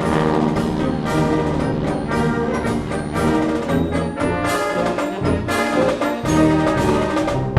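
Orchestral music led by brass, with trombones and trumpets playing held notes over a steady beat.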